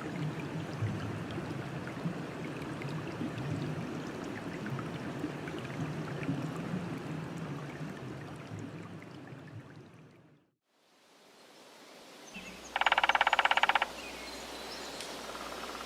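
Running water, like a stream, steady, fading out about ten seconds in. After a moment of silence a quieter outdoor ambience begins, and near the end a loud, rapidly pulsed buzzing call lasts about a second.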